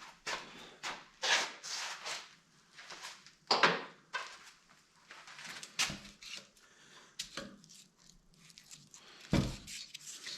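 Irregular knocks, clunks and scraping of a mesquite blank being handled and mounted onto a lathe's woodworm screw, with a heavier thump about nine seconds in. The lathe is not running.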